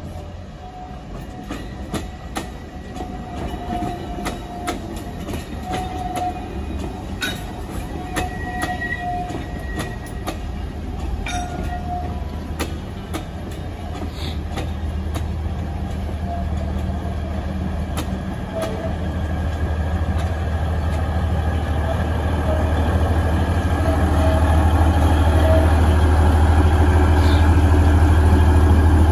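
Alishan Forest Railway train running on the rails, with scattered clicks of wheels over rail joints. Its deep engine rumble grows steadily louder through the second half as it comes closer.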